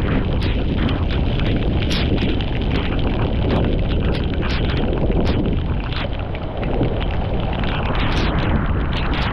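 Floodwater rushing and gurgling through a cleared drain, a steady loud rush with frequent splashes, with wind buffeting the microphone.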